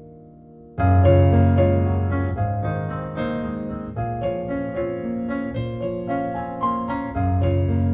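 Slow, calm solo piano music: a held chord fades away, then about a second in a new phrase begins with a deep bass note under a melody of single ringing notes, with another low bass note struck near the end.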